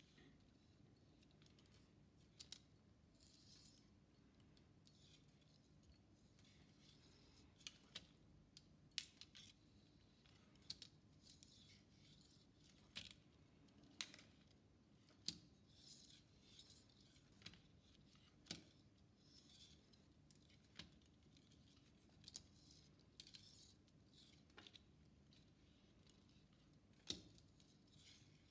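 Faint, irregular sharp clicks, about one every second or two, with light scraping in between: small hard parts being handled and worked by hand.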